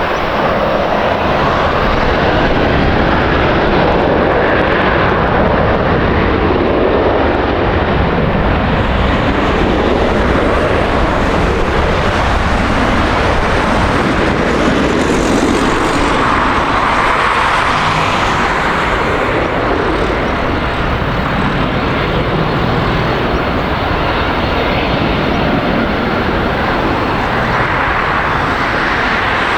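Jet airliner engines, a loud, steady roar.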